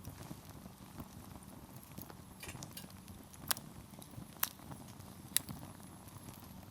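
Wood campfire burning with a low steady rustle of flame, crackling and then popping sharply three times about a second apart in the second half as the firewood bursts.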